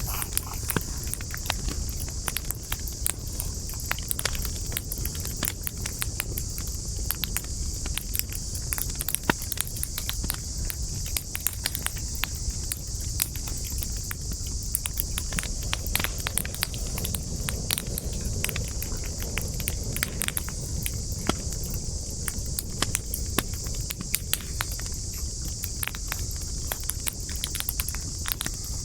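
Wood campfire crackling, with frequent sharp snaps and pops throughout, over a steady high-pitched insect chorus.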